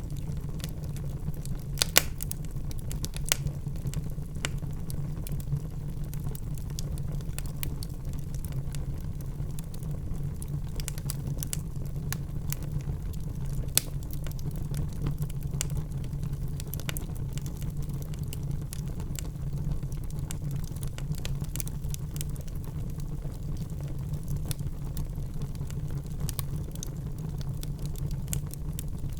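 Wood fire burning in a fireplace: a steady low rumble of flames with irregular sharp crackles and pops from the logs, a few louder pops about two seconds in, again shortly after, and near the middle.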